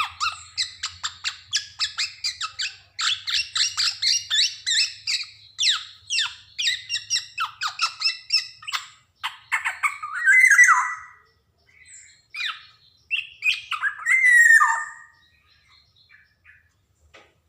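Black-naped oriole (kepodang) calling: a rapid run of harsh chattering notes, then two louder slurred calls that fall in pitch, one about ten seconds in and another a few seconds later.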